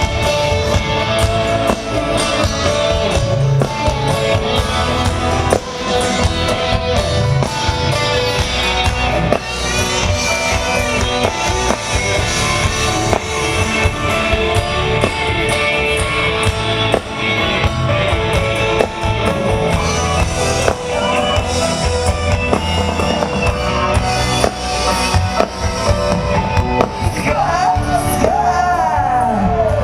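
A rock band playing live: drum kit, guitars and sustained melody, with singing near the end.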